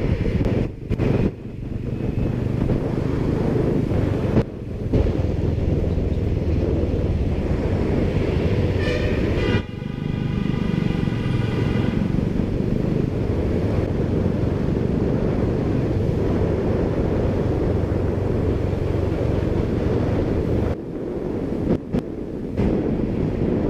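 Steady low engine rumble with wind buffeting the microphone and several brief dropouts. A horn sounds for about three seconds near the middle.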